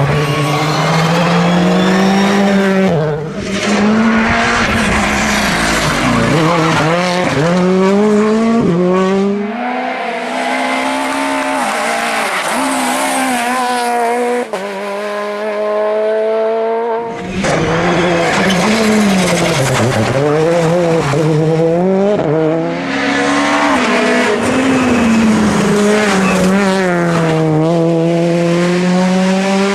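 Rally cars driven flat out: engines revving high, rising through the gears and dropping sharply on lift-off and braking, with tyre squeal. Several short passes follow one another with abrupt cuts.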